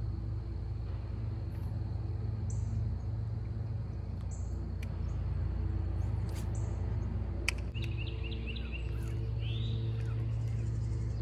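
Birds calling: short high chirps every couple of seconds, then a quick run of chirps and a sweeping whistle in the second half, over a steady low rumble. A single sharp click comes a little past halfway.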